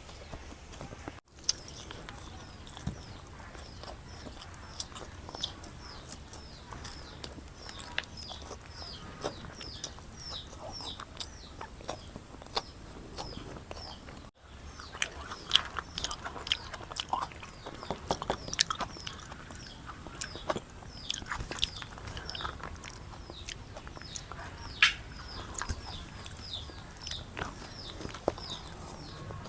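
A person eating close to the microphone, chewing and biting with many sharp, irregular wet mouth clicks and the odd crunchy bite, busier in the second half.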